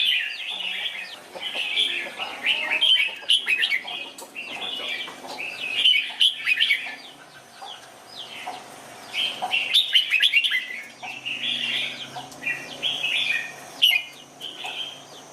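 Red-whiskered bulbuls singing: bursts of quick, bright chirping phrases, with a short lull a little past halfway before the song picks up again.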